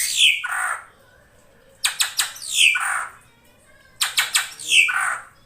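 Female drongo (srigunting) calling, three times about two seconds apart. Each call is a few sharp clicky notes followed by harsh, falling squawks. It is a recorded lure call used to bring males into song.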